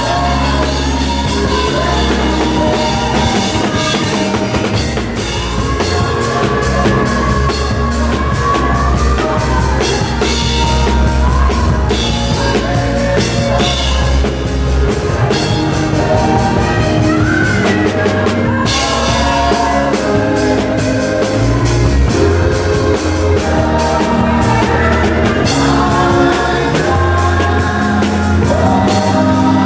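A worship song played by a band: a singer's voice over drum kit, bass and guitar, running steadily.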